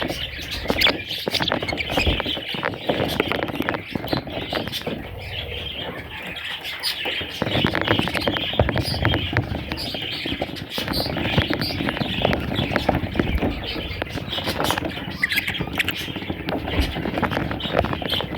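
A flock of budgerigars chattering and chirping without a break, with many small clicks and scratches mixed in.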